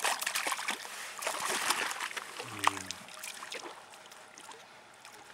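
Water splashing and sloshing, busy with quick splashes for the first three seconds, then settling to a faint trickle.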